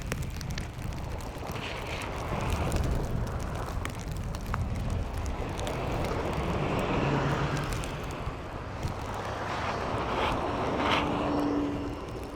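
Vehicles passing one after another on a snowy city street, each swelling up and fading, over a steady low rumble of wind and traffic.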